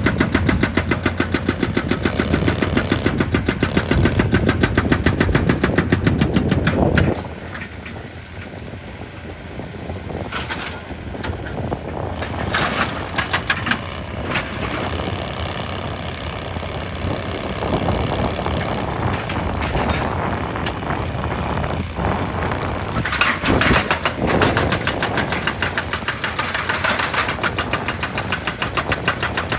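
Excavator at work: a fast, regular pounding, about eight to ten strokes a second, that cuts off about seven seconds in. After that the machine runs quieter, with scattered knocks, and the pounding and louder strikes come back in the second half.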